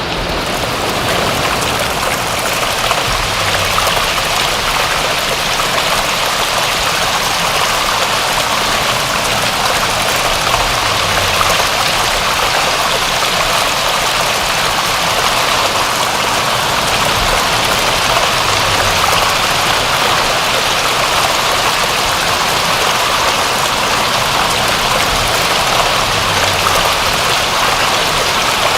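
Steady, even rain falling, a dense hiss of drops without individual patters standing out.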